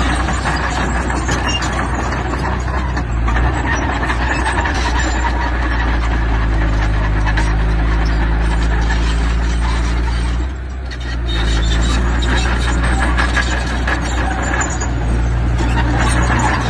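Heavy diesel earthmoving machinery running steadily, its low engine note overlaid with constant rattling and clatter. The sound drops briefly a little after ten seconds in, then comes back.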